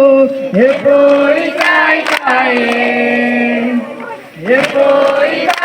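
Singing voices holding long, steady notes, each note sliding up into pitch at its start, with a brief break about four seconds in.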